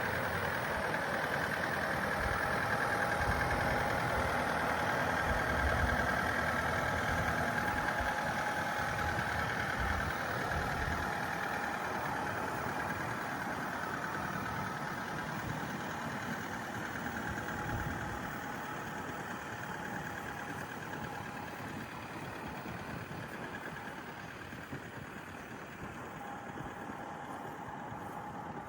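A vehicle engine running steadily with a faint whine, slowly growing quieter.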